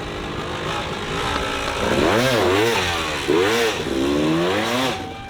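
Off-road motorcycle engine revved in several quick blips, its pitch rising and falling repeatedly from about two seconds in, after a steadier lower engine note.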